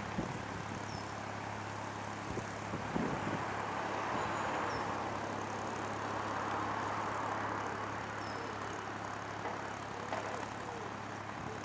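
Narrowboat's engine running steadily, a low hum under a rushing noise that swells in the middle and eases off toward the end.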